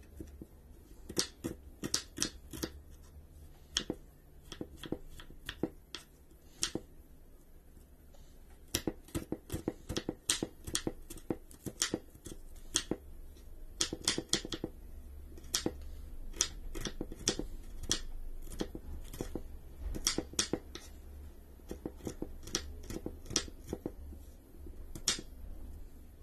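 Kitchen knife chopping small red onions on a wooden cutting board: quick runs of sharp taps as the blade strikes the board, with short pauses between runs.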